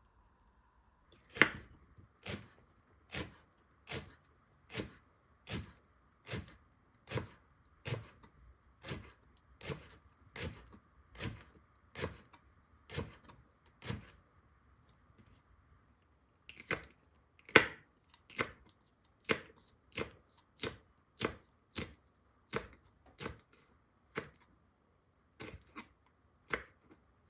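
Kitchen knife chopping on a cutting board in slow, even strokes, a little more than one a second, with a pause of about two seconds midway.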